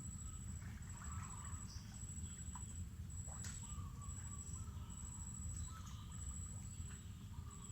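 Forest ambience: an insect's high, thin trill repeats in stretches of about a second each, with scattered short bird chirps and calls over a low steady rumble.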